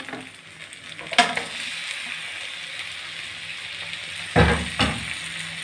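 Spice masala sizzling in hot oil in a metal kadai while a steel spatula stirs and scrapes it. A knock of the spatula comes about a second in, and a louder scrape and knock against the pan comes about four and a half seconds in.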